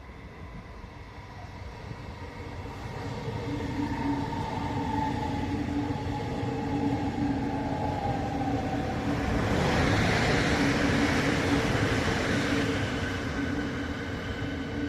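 Berlin S-Bahn electric train approaching and running past, growing steadily louder. Its motor whine falls in pitch as it comes in, and the rushing rail noise is loudest about ten seconds in before easing off slightly.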